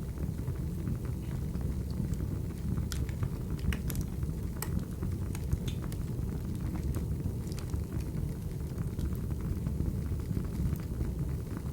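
Burning firewood: a steady low rumble of flames with scattered sharp crackles and pops.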